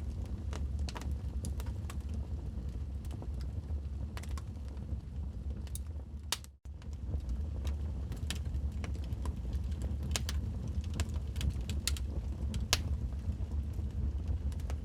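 Log fire in a fireplace crackling, with irregular sharp pops over a low rumble of the flames. The sound cuts out briefly about six and a half seconds in, then carries on.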